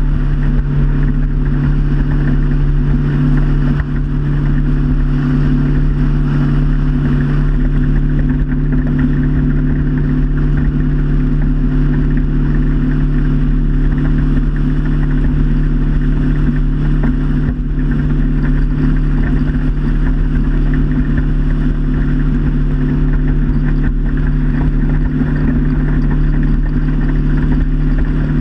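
Motorboat engine running at a steady cruising speed, a constant loud drone with a hiss of water and wind over it.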